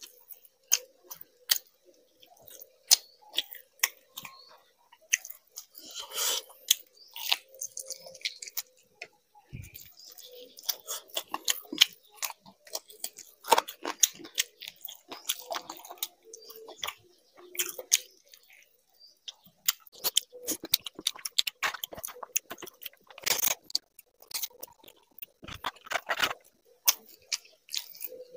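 Close-up chewing and mouth sounds of a man eating rice and curry by hand: many irregular sharp smacks and clicks, with some crunching.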